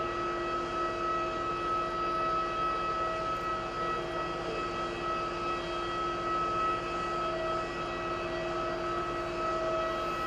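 Aircraft engines running steadily: a constant high whine over an even rushing noise.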